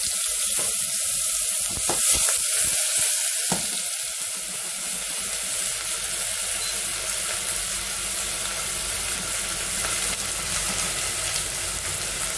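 Chopped onion frying in hot oil in a stainless steel pot: a steady sizzle with fine crackles.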